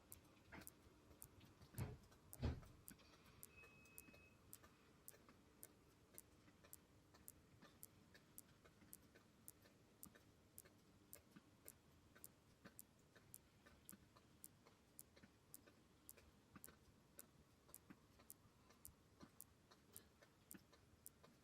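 Faint, even ticking, about two ticks a second, with two louder thumps about two seconds in.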